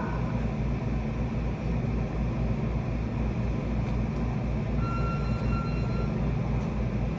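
Steady low road and engine rumble inside a moving car. About five seconds in there is a short electronic beep in two parts.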